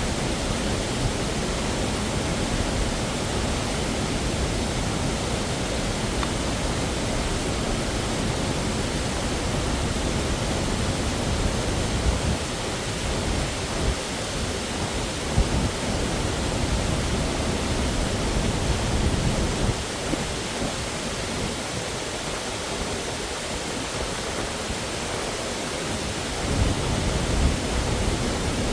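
Waterfall: a steady, even rush of falling water, with a few brief low knocks scattered through it.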